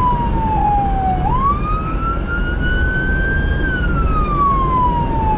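Emergency vehicle siren in a slow wail: the pitch sinks steadily for a couple of seconds, then swings back up quickly and climbs slowly again. A steady low rumble runs underneath.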